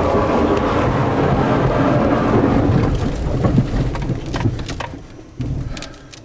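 Thunderstorm heard from inside a moving car: loud rain and a long rumble of thunder with a few sharp cracks, dying away over the last two seconds.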